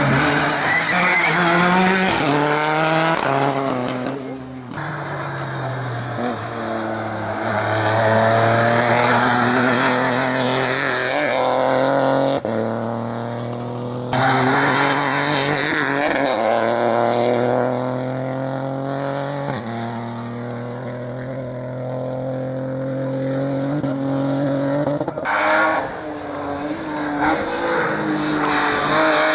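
Rally cars' engines at full throttle on a tarmac hillclimb stage, each note climbing in pitch and dropping back at the gear changes. The sound jumps abruptly several times from one car to the next.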